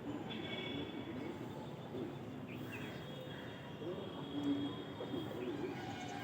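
Outdoor morning ambience: birds chirping and calling over a steady low background hum.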